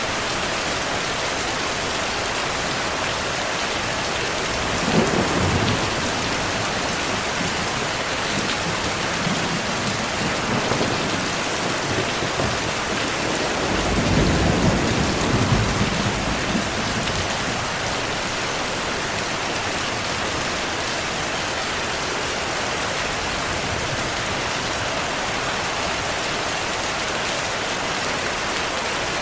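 Steady heavy rain hissing, with distant thunder rumbling twice: a short rumble about five seconds in and a longer, louder roll about fourteen seconds in.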